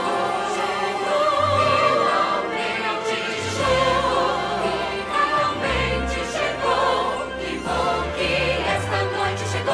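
Choral singing of long held notes over orchestral accompaniment, with a steady bass line underneath.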